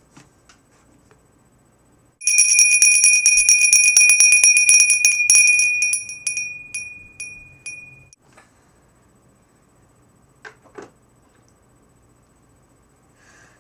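A small metal bell rung rapidly and loudly for about four seconds, then a few slower strikes fading out. Two soft knocks follow near the end.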